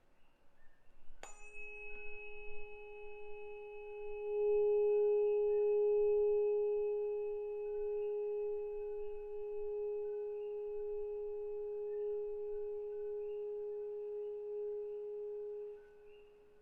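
A 417 Hz Solfeggio tuning fork struck once about a second in, then ringing a steady pure tone with faint higher overtones. The tone grows louder a few seconds in and stops shortly before the end.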